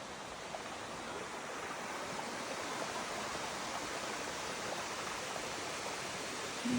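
Steady rushing water of a waterfall and stream, a constant noisy wash that grows a little louder over the first couple of seconds.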